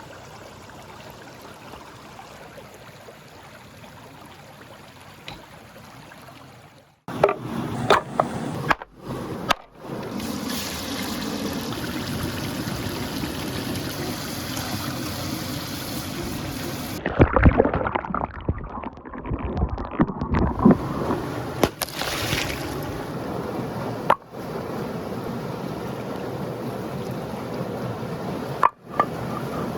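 Running water, a steady wash of flowing or trickling water across several abrupt cuts, with a few sharp knocks partway through.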